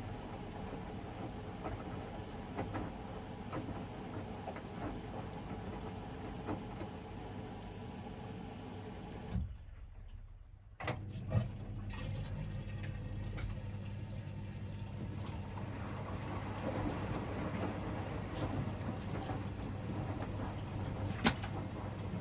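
Hoover DXOA610AHFN-80 front-loading washing machine running mid-wash on a 60°C cycle, its drum turning with water in it and the motor humming steadily. The sound drops out for about a second and a half near the middle, and there is a sharp click near the end.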